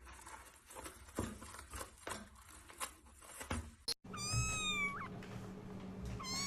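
Faint scattered clicks and knocks, then, about four seconds in, a cat meowing once in a long call lasting about a second, with a second meow starting near the end.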